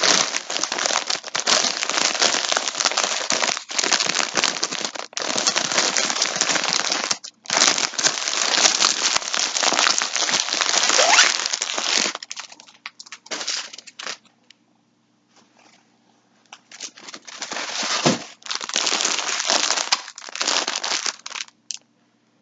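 Plastic packaging crinkling and rustling as it is handled, in long unbroken stretches, with a quiet gap of a couple of seconds a little past the middle before the crinkling resumes.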